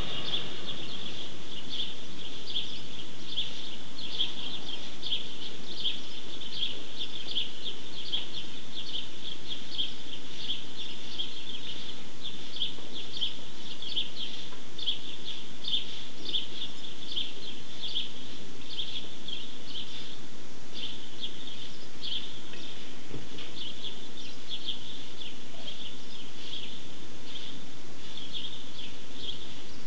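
Birds chirping steadily, a continuous run of high chirps, a few each second.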